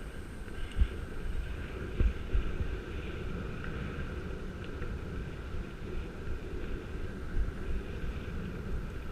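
Wind rumbling over a helmet-mounted camera's microphone while riding a bicycle, with a few sharp knocks as the loose helmet camera jolts.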